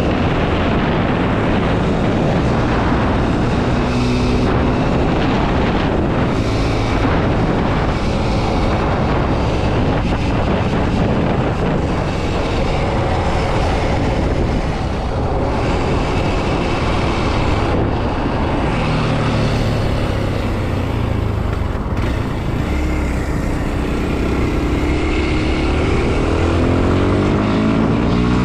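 Kawasaki KLX 230 SM's single-cylinder engine running while riding, its pitch shifting with the throttle and rising near the end as the bike accelerates.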